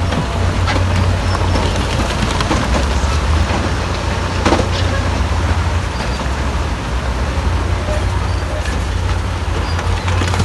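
Heavy diesel earthmoving machinery at work: a steady deep engine drone with scattered clanks and knocks, one sharper knock about four and a half seconds in.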